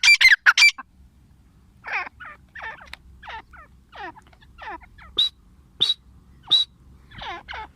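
Female grey francolin calling: a loud rapid run of harsh notes that stops under a second in, followed by a spaced series of quieter falling notes, then from about five seconds short sharp calls repeating roughly every two-thirds of a second.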